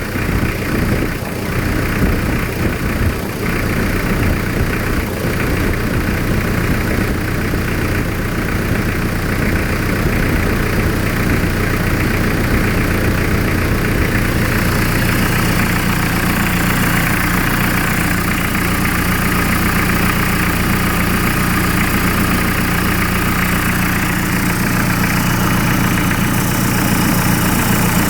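Hyundai D4BH 2.5-litre four-cylinder turbodiesel running steadily at idle. The sound grows a little fuller and brighter about halfway through.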